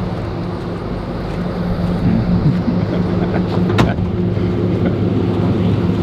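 Flatbed tow truck's engine running at a steady idle, with a single sharp knock about four seconds in.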